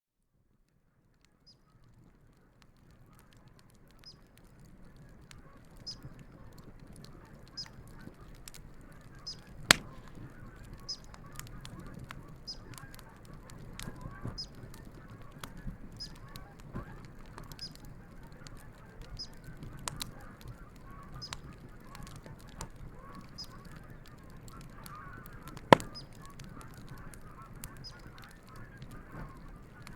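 Wood campfire crackling, with scattered small snaps and two loud pops, about ten seconds in and again near the end, while geese honk on and off throughout. The sound fades in over the first few seconds.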